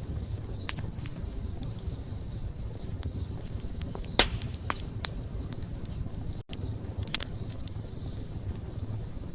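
Wood campfire crackling: a steady low rumble of burning with scattered sharp pops and snaps, the loudest a little over four seconds in. The sound cuts out for an instant about six and a half seconds in.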